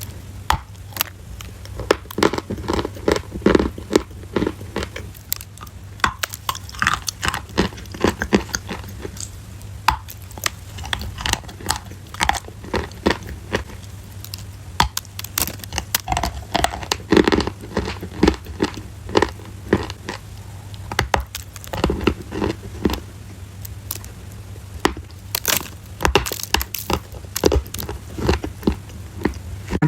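Close-up chewing of crunchy food: a fast, irregular run of sharp crunches and bites throughout, over a steady low hum.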